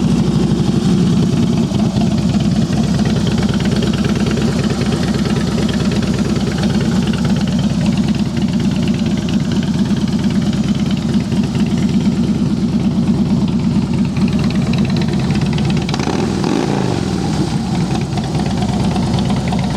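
Twin Cam 88 V-twin engine of a 2007 Harley-Davidson Heritage Softail Classic, with Vance & Hines Long Shots exhaust, idling steadily just after being started. The pitch wavers briefly about sixteen seconds in, then settles again.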